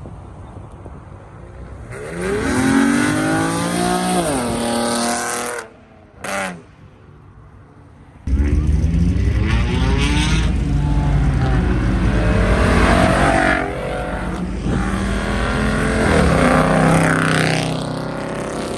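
Car engines revving hard and accelerating. The revs climb from about two seconds in and drop away near six seconds, there is a short blip, and then a louder, deeper engine run starts suddenly, its revs rising and falling.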